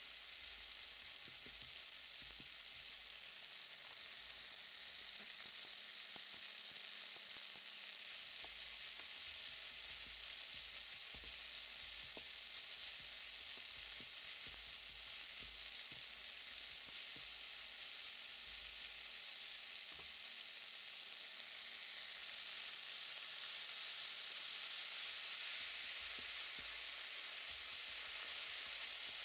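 Crumbled tofu, red onion and diced mushrooms frying in a nonstick pan with a steady sizzle. A plastic spatula stirs through the food, giving faint small clicks and scrapes.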